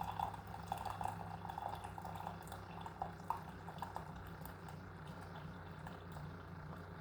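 Mainstays single-serve K-Cup coffee maker dispensing: coffee streaming and dripping into the cup over a steady low hum of its water pump, with small scattered spatters.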